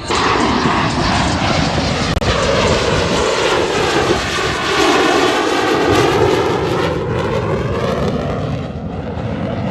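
Airplane making a loud low pass, its noise starting abruptly and sweeping down and back up in a whooshing, phasing pattern as it goes by.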